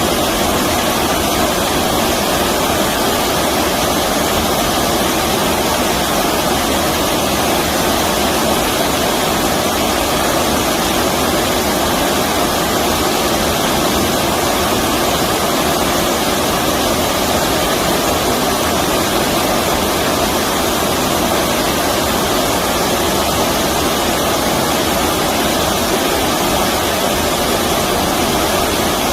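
Stream water rushing steadily, a loud even wash of noise with no breaks.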